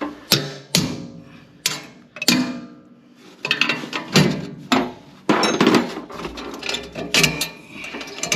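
Hand tools and metal fittings clanking against each other while a turbocharger is being unbolted: a string of sharp metallic knocks, some ringing briefly.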